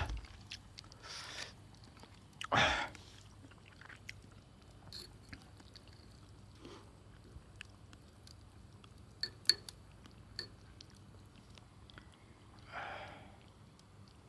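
A person chewing and biting food close to the microphone, with a few short noisy bursts and some sharp clicks in between.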